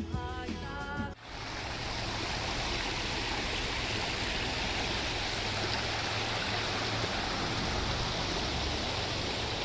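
A small forest creek babbling steadily. Background music cuts off about a second in, leaving the running water alone.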